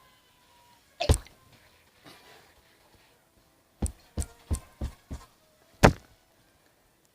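Sharp knocks: one about a second in, a quick run of five about four seconds in, and a loudest single knock near the end.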